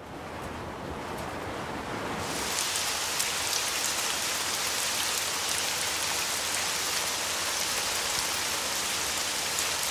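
Steady rain hiss. It swells to a full downpour about two seconds in and then holds even.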